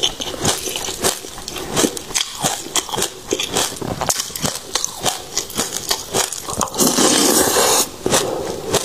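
Close-miked crunching and crackling of passion fruit seeds being chewed, a fast run of sharp cracks. About seven seconds in there is a denser, louder burst of crackling lasting about a second.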